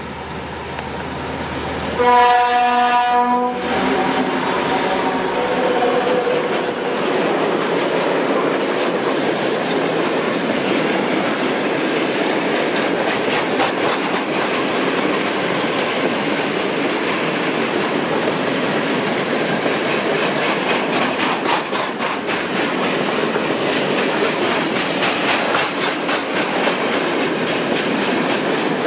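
A locomotive horn sounds once, about two seconds in, for a little over a second. A freight train then passes close by: a steady loud rumble of wagons with a rapid, regular clatter of wheels over the rail joints.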